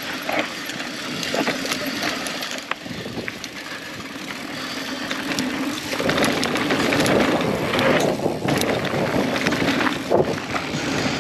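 Mountain bike riding a dirt trail: steady tyre noise over the ground with many small clicks and rattles, and wind on the microphone, getting louder about six seconds in.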